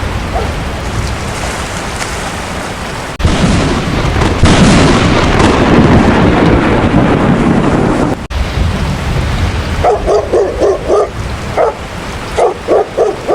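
Heavy rain falling steadily, swelling abruptly louder with a low thunder rumble for about five seconds in the middle. Near the end a dog barks in quick bursts: a fast run of barks, one more, then three more.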